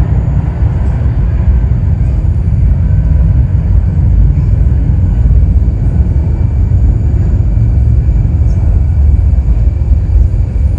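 Jet airliner engines making a loud, steady low rumble that carries through without a break.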